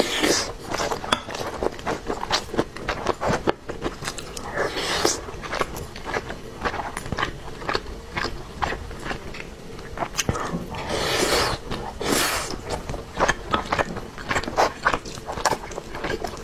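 Close-miked eating sounds: a person chewing mouthfuls of braised pork and rice, with many quick wet mouth clicks. A few longer, noisier stretches come in between, around five seconds in and again after ten seconds.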